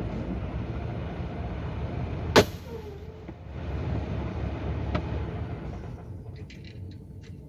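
Semi truck's diesel engine running with a steady low rumble heard from the cab, a single loud sharp click a little over two seconds in and a smaller one near the middle. The rumble fades in the last second or so, leaving a few faint ticks.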